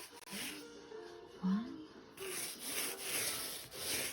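Rhythmic back-and-forth rubbing strokes on a cardboard surface, about three a second, pausing for over a second partway through.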